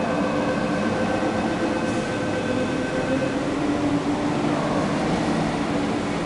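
MTR East Rail MLR electric multiple unit pulling out of the platform. Its electric whine sounds as several steady tones, and the higher ones drop away a little past halfway. Under it runs the steady noise of the cars rolling past on the rails.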